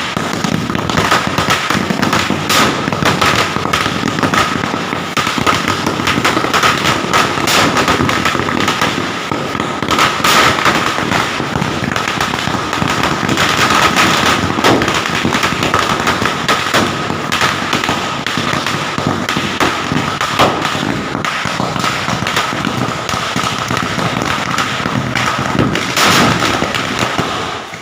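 Firecrackers going off in a rapid, unbroken crackle of bangs for nearly half a minute, starting and stopping abruptly, with a faint steady tone underneath.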